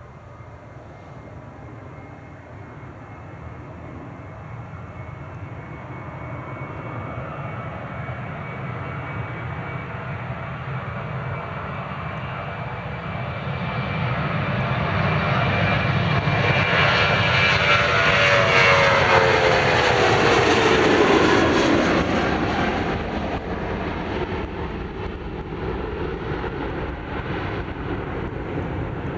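Jet airliner passing close by on departure, its engine noise building steadily and peaking about two-thirds of the way through, with a whine that falls in pitch as it goes past, then easing off.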